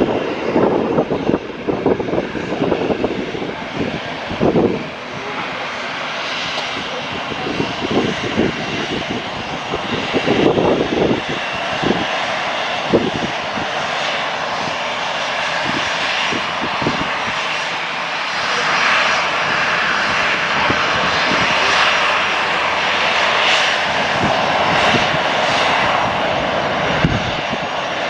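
Airliner engines running with a steady rushing noise, growing somewhat louder about two-thirds of the way through.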